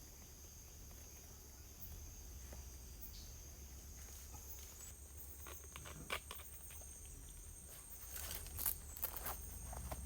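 Forest insects droning in steady high thin tones, with a second, higher-pitched insect joining about halfway through. A few scattered clicks and light knocks come near the middle and toward the end.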